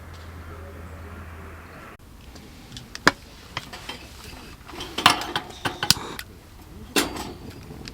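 Camp cookware and utensils being handled: a run of sharp clinks and knocks, busiest around the middle of the clip, with one more loud knock near the end.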